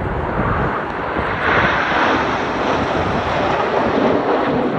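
Jet noise from the Red Arrows' BAE Hawk trainer jets flying past in formation. It swells to its loudest about a second and a half in and stays loud.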